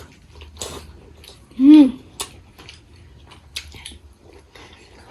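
Mouth clicks and smacks of someone eating grapes, with one short, loud voice-like sound that rises and falls in pitch about a second and a half in.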